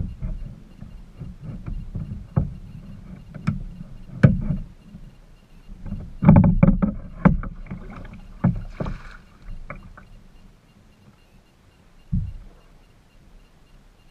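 A kayak being paddled: irregular knocks and thumps with splashy water noise, busiest about six to seven seconds in.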